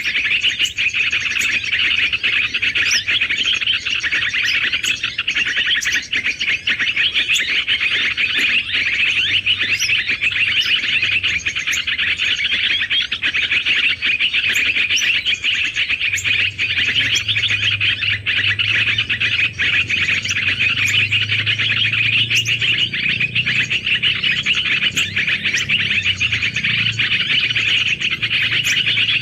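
Dense, continuous chattering of many small birds, an unbroken mass of high chirps. A low hum joins about halfway through.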